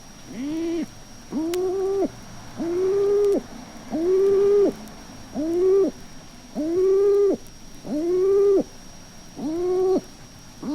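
Hen feral pigeon giving a gruff coo, repeated steadily about every second and a quarter, each coo rising, held briefly and falling away at the end.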